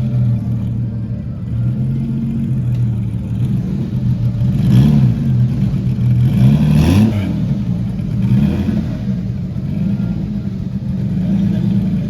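A car engine running steadily, revved twice, about five and seven seconds in, its pitch rising and falling each time.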